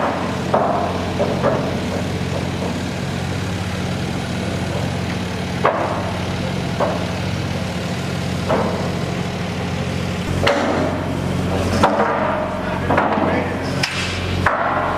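An engine or machine runs steadily with a low hum, while sharp knocks and clanks like hammer blows come now and then, more thickly together in the last few seconds.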